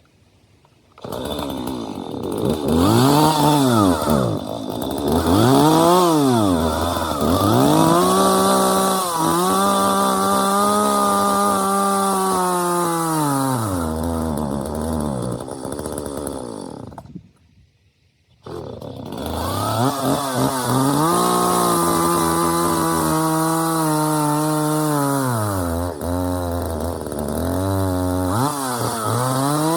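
Husqvarna 136 two-stroke chainsaw revving up and dropping back several times, held at high revs for a few seconds at a stretch, with uneven revs that sag. Its sound drops out for a moment a little past the middle, then it comes back. The sagging revs are the bog that the owner puts down to buildup or an air problem in the carburetor.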